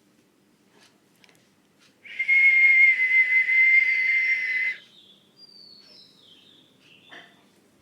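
A loud, steady, breathy whistle holding one pitch for nearly three seconds, then stopping. Faint bird chirps follow near the end.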